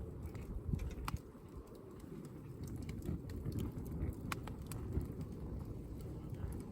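Wood campfire burning, with a few sharp crackles and pops over a low steady rumble; the loudest pop comes about five seconds in.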